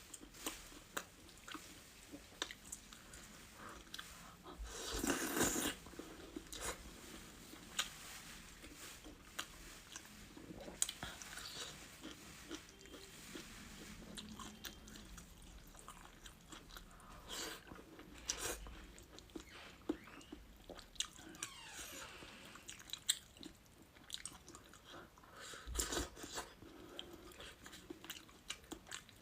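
A person eating close to the microphone: crunchy bites and steady chewing, with a louder crunch about five seconds in.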